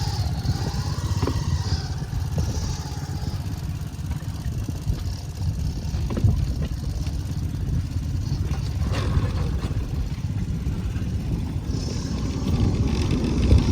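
Bamboo train (norry) running along the rails: its small engine drones steadily, with a few sharp knocks from the bamboo platform and wheels.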